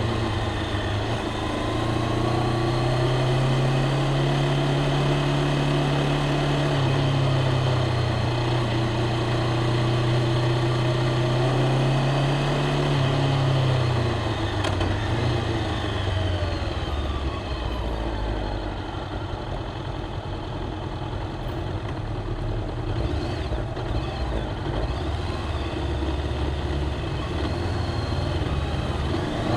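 Honda CBR500R parallel-twin engine and exhaust running at steady low revs. About halfway through, the note drops to a lower, rougher idle-like rumble.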